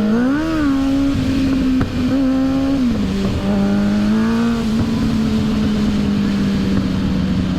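2006 Suzuki GSX-R 750's inline-four engine running while riding. The revs rise and fall about half a second in, hold higher for a couple of seconds, drop near three seconds in, then hold steady.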